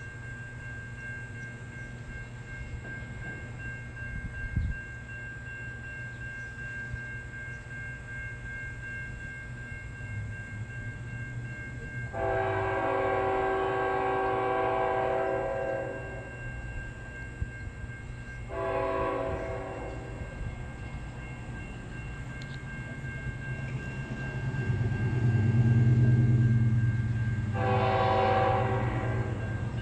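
Approaching train's diesel locomotive sounding its multi-note air horn: a long blast about 12 seconds in, a shorter one about 18 seconds in, and another long one near the end. Under the horn, a steady low engine rumble grows louder as the train nears.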